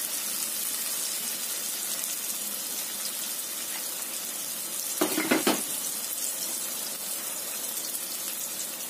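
Ground spice paste of garlic, shallots, candlenuts and red chilies sizzling steadily in hot oil in a wok, being fried until it is cooked. A brief louder sound cuts in about five seconds in.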